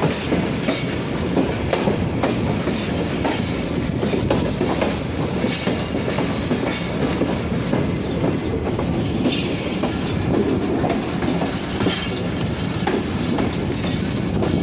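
A long train moving along the track: a steady rumble with steel wheels clacking over the rail joints.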